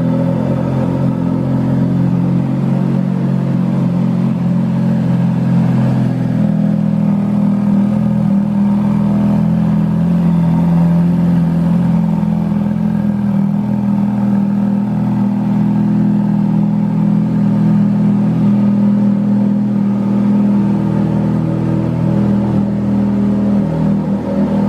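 Ferrari F430's 4.3-litre V8 engine running steadily, its pitch holding nearly constant with no clear revs.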